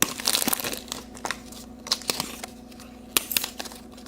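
Plastic packaging crinkling and crackling in the hands as a blind-bag toy package is handled and torn open, in a run of irregular short crackles.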